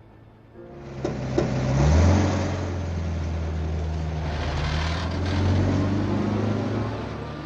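A car's engine running close by, swelling in about half a second in and rising in pitch around two seconds in, then holding steady and slowly fading. Two sharp clicks come early in the swell.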